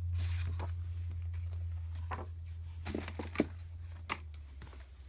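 Paper handling: a handful of short rustles and taps as printed booklets are moved and set down, over a steady low hum.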